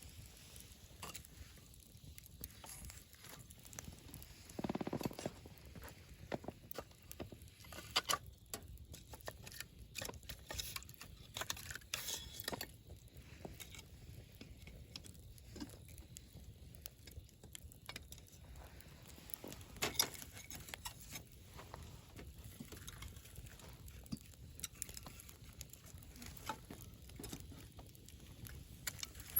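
Wood campfire crackling, with irregular sharp pops and snaps of burning wood, a few louder ones, over a low steady rumble.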